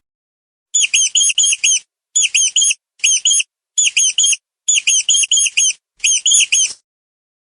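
A mouse squeaking: six quick runs of three to five high, thin squeaks each, separated by short pauses.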